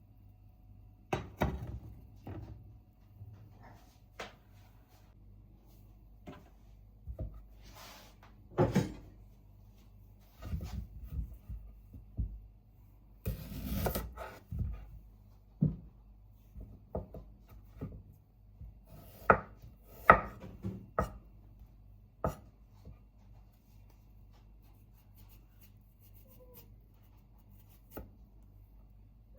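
Scattered, irregular knocks and taps of objects being set down and handled, with a short rustle partway through.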